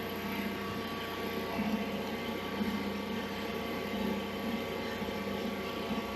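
A steady mechanical drone with a constant hum made of several steady tones.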